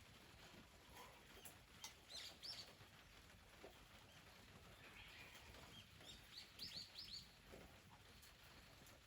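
A small songbird calling faintly: a few high chirps about two seconds in, then a quick run of about five chirps later on, over a quiet background.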